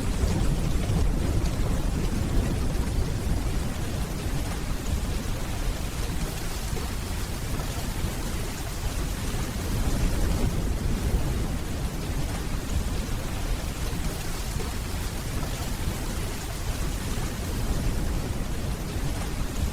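Steady rainfall with a low rolling rumble of distant thunder underneath, swelling a little near the start and again about halfway through.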